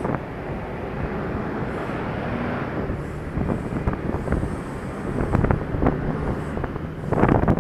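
Wind buffeting the action camera's microphone while riding a Honda Dio scooter, with the scooter's engine and road noise underneath; irregular gusts and knocks in the wind, heaviest near the end.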